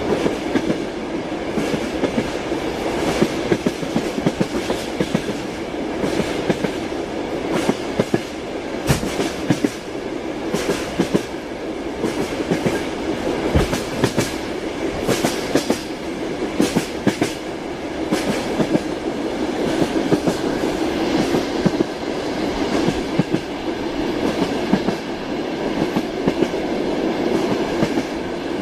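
Train wheels clattering over the rails: a steady rumble with frequent sharp clicks and knocks.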